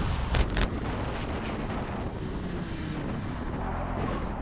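Motorcycle engine running with road and traffic noise, wind rushing over the microphone, and a brief sharp burst about half a second in.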